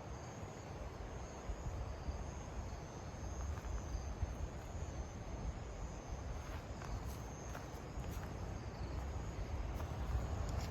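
Crickets trilling steadily in a high-pitched chirr, over a low rumble.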